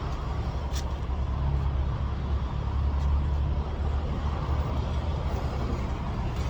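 Heavy diesel truck engine running steadily, a low rumble, with a short click under a second in.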